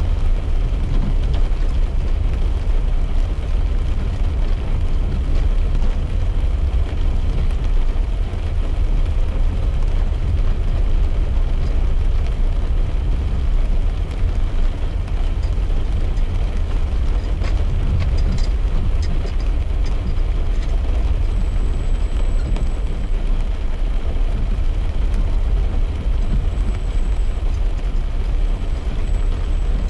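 Car cabin noise while driving on a wet road in the rain: a steady low road-and-engine rumble with a haze of tyre and rain noise over it.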